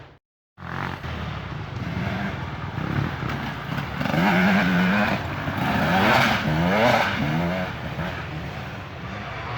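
Dirt bike engines revving up and down, with the pitch rising and falling repeatedly and loudest about halfway through. A brief cut to silence comes just after the start.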